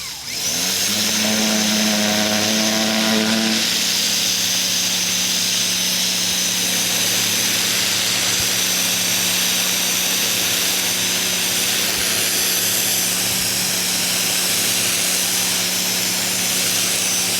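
Ryobi 2000 PSI electric pressure washer starting back up right at the start, its motor giving a pitched hum for the first few seconds, then settling into a steady hiss of high-pressure water spray with the motor's constant hum underneath.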